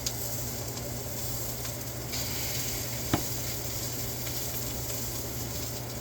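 Tortillas for birria tacos frying in a hot pan, a steady sizzle, with a single sharp click about three seconds in.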